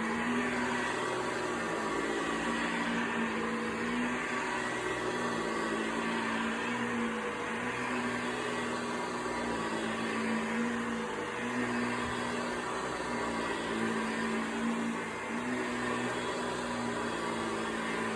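Vacuum cleaner running steadily: a motor hum over a broad rush of air, its pitch wavering and dipping briefly now and then.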